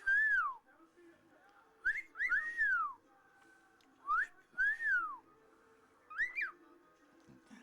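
A pet bird whistling: a short rising note followed by a longer whistle that arches up and falls away, repeated several times with pauses between, and a quick double note near the end.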